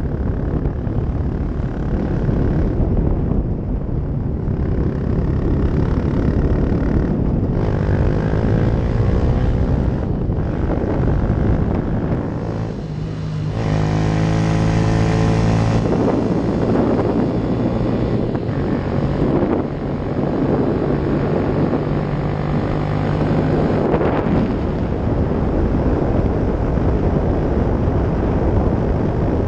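Yamaha YS 125's single-cylinder four-stroke engine through a LeoVince aftermarket exhaust, running steadily under load up a winding road. The engine note eases briefly about halfway through, then pulls on again.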